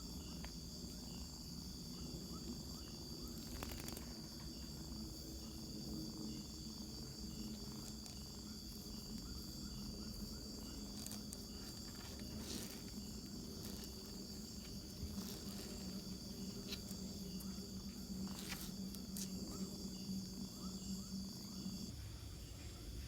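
Insects chirring in a steady, high, pulsing drone, with a low steady hum underneath and a few faint clicks. Both the drone and the hum cut off near the end.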